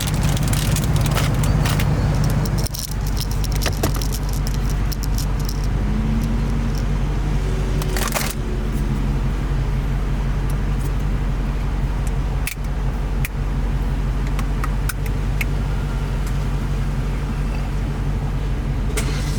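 Dodge Scat Pack's 6.4-litre HEMI V8 running steadily with a deep, even drone, with scattered small clicks and rattles over it.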